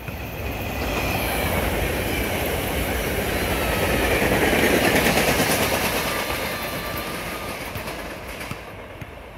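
SEPTA Regional Rail electric commuter train passing close by, its wheels clattering over the rail joints. It grows louder to a peak about halfway through and fades away near the end, with a faint high whine over the rumble.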